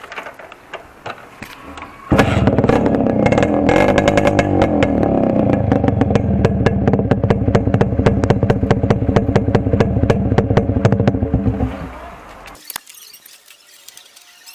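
Yamaha RX100's two-stroke single-cylinder engine running loud through a silencer with its inner muffler cut out, its exhaust crackling with rapid sharp pops. It comes in abruptly about two seconds in and dies away near the end.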